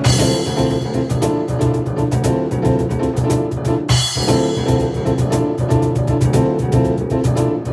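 Piano and cajon duo playing a fast instrumental: rapid piano chords over driving hand-drum strikes, with a brief break about four seconds in.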